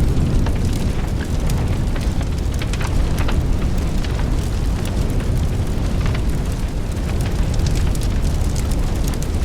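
Steady rumbling noise with many small sharp crackles throughout, without speech.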